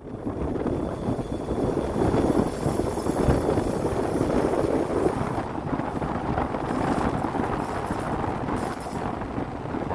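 Diesel-hauled train running by, a dense rumbling noise mixed with wind buffeting the microphone.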